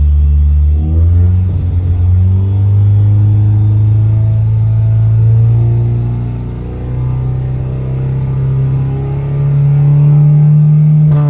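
Turbocharged Ford Fiesta ST engine with a straight-piped exhaust, held at high revs for a misfire monitor profile relearn. The engine speed steps up about a second in, sags around the middle, then climbs again near the end.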